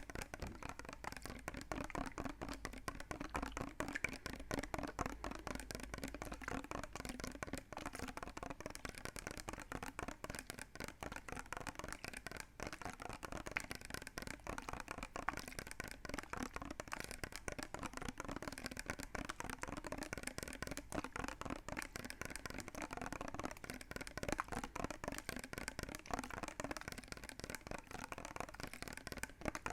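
Continuous, rapid wet clicking sounds made close to the microphone, many small clicks a second without a break.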